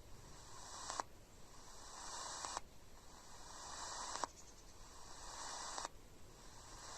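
Radio receiver hiss from empty channels, faint and changing abruptly about every one and a half seconds, each change marked by a click, as the set steps from one frequency to the next.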